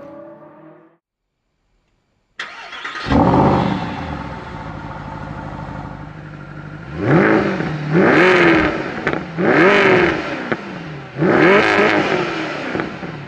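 Mercedes SLS AMG GT3 naturally aspirated V8 race engine. After about two seconds of silence it cuts in suddenly and revs once. It then runs steadily before rising and falling in pitch four times in quick succession.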